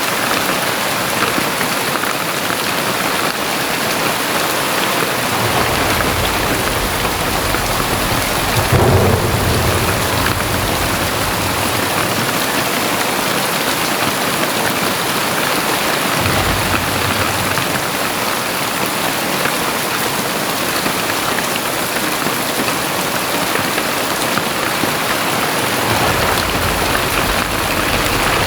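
Very heavy rain pouring steadily, with two long spells of low thunder rumble, the first swelling about nine seconds in, the second in the back half.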